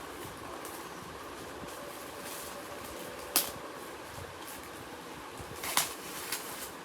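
Canvas-pack packaging being handled while it is unboxed, giving two sharp clicks or snaps about three and a half and six seconds in, over a steady background hiss.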